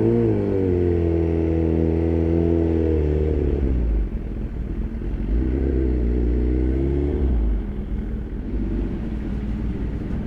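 Suzuki GSX-R1000 inline-four running through a replica SC-Project exhaust. The engine is revved up twice, each time held for about three seconds, then drops back to a lower, quieter note near the end.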